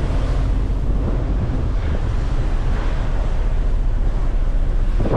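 Steady wind rumbling on the microphone on a ferry's open deck, mixed with the wash of a rough sea.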